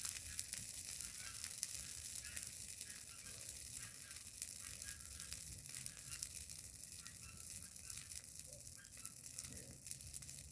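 Large bonfire of pruned thorny brush burning, a steady hiss with many sharp crackles and pops.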